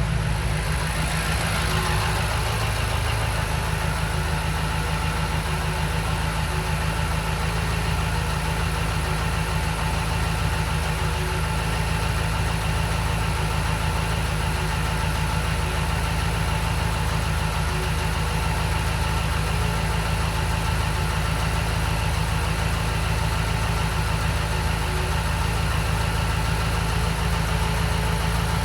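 BMW F90 M5's twin-turbo 4.4-litre V8 idling steadily shortly after a cold start, breathing through catless downpipes and the stock exhaust in its default quiet mode. A fainter whine falls in pitch over the first few seconds.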